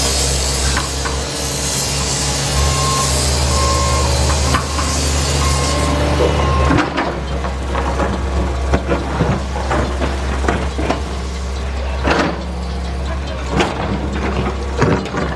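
John Deere excavator's diesel engine running steadily, with a high hiss over it for the first six seconds or so. After that, a string of sharp knocks and clunks as the bucket works rock.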